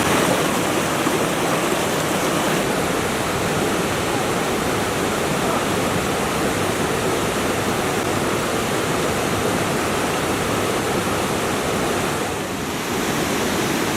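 Steady rush of water from a forest stream, dipping slightly for a moment near the end.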